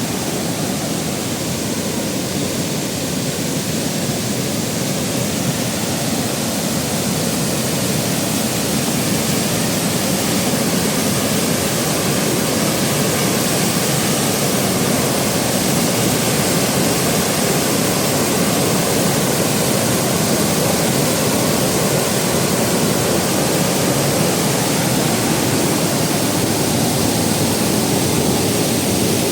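Water of a tiered waterfall rushing and splashing down in a steady, unbroken roar.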